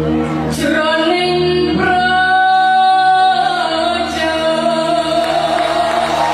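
A woman singing with musical accompaniment, holding one long high note through the middle that slides down at its end.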